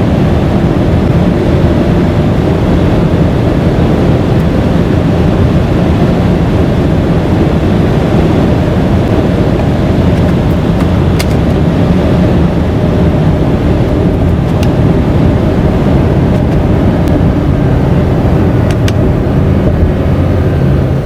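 2022 Subaru Crosstrek e-Boxer driving at a steady speed: its 2.0-litre flat-four hybrid engine and road noise run at a steady, low-pitched level without revving up or down. A few faint clicks occur.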